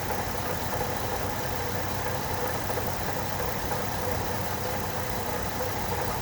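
2006 Chevrolet Trailblazer's 4.2-litre inline-six idling steadily with a muffled knocking, the sign of a water pump whose bearing is worn out.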